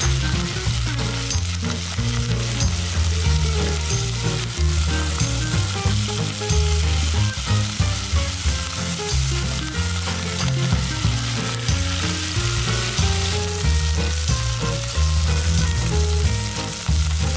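Chicken drumsticks sizzling in hot oil in a nonstick pot as they brown, with the sounds of tongs turning them. Background music with a stepping bass line plays underneath.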